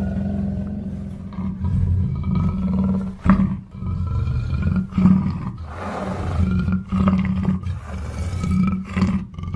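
Black panther (black leopard) calling in a long run of low, rough vocalizations, broken by brief pauses every second or two.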